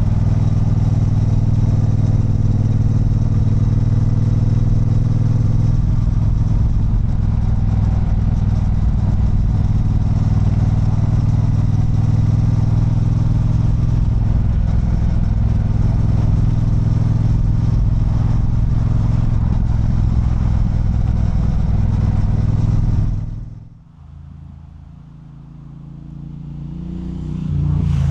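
Triumph Bonneville Bobber's 1200 cc parallel-twin engine running steadily under way on the ride. About 23 seconds in the engine sound drops away sharply, and a quieter low sound swells near the end.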